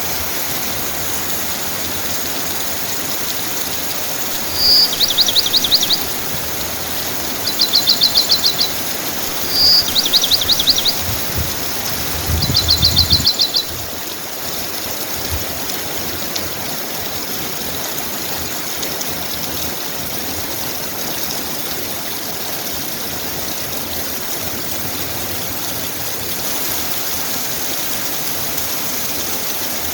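Steady rain falling, with a songbird singing four short, rapid trills of about a second each in the first half, some opening with a single high note. The trills are the loudest sounds.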